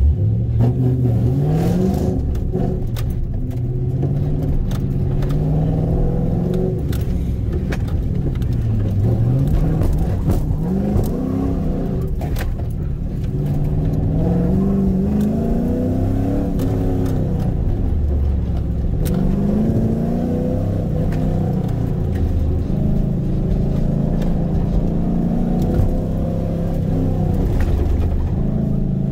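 Car engine pulled hard through an autocross run, its pitch climbing under acceleration and dropping off again and again every few seconds as the driver lifts and gets back on the throttle between cones, with scattered sharp clicks.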